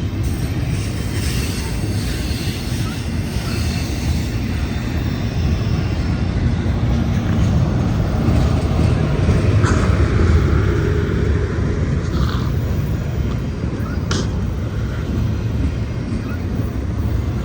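Double-stack container cars of a long Union Pacific intermodal train rolling past on the rails: a steady, loud rumble of wheels on track, with a few short sharp clicks or squeaks from the wheels about ten, twelve and fourteen seconds in.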